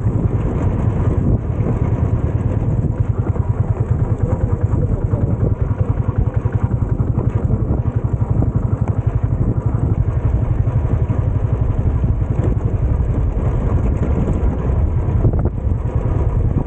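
Royal Enfield motorcycle engine running at a steady cruise while riding, its exhaust pulses in a fast, even beat.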